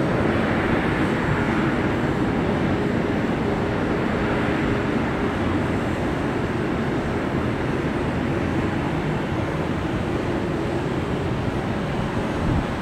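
Jet airliner engines running, a steady, even rumble with a faint low hum in it, easing off slightly toward the end.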